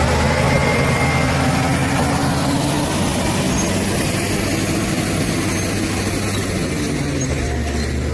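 Bulldozer's diesel engine running as it works earth. The deep drone eases off about half a second in and grows stronger again near the end.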